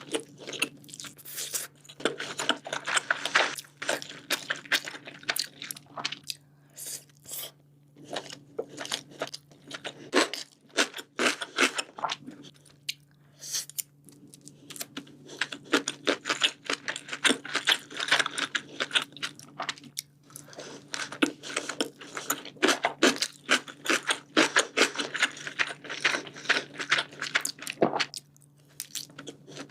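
Close-miked eating of sushi: runs of chewing and biting with dense clicks and smacks from the mouth, broken by a few short pauses.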